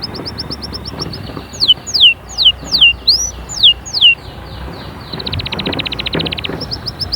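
Canary singing: fast rattling trills, then a run of about seven loud whistles that each sweep downward, followed by another rapid trill and a few quick chirps.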